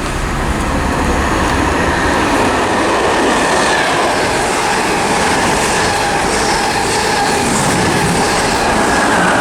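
A Class 90 electric locomotive-hauled express passing through the station at speed: a loud, steady rush of wheels on rail with clickety-clack and a steady high whine that dips in pitch near the end.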